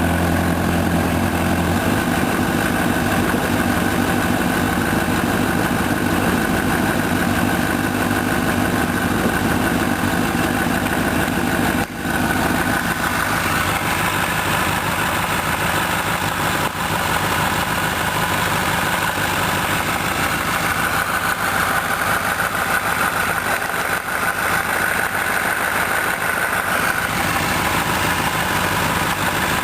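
Honda CBR1000RR inline-four engine running at low revs, with a loud rhythmic 'tak-tak-tak' knock about 12 s in and again near the end. The knock keeps time with the revs and appears only when the warm engine's clutch is eased out to the friction point at a standstill. Its cause is not known.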